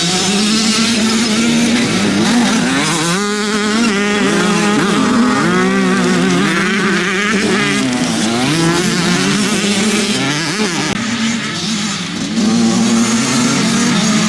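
Motocross motorcycle engines revving, their pitch climbing and dropping again and again as they accelerate and shift, with several bikes heard at once in the middle stretch.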